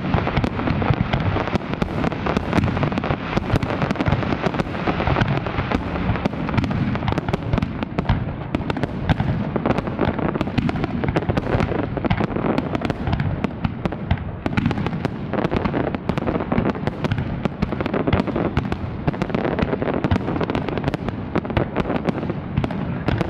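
Large fireworks display: a dense, unbroken barrage of many rapid, overlapping bangs.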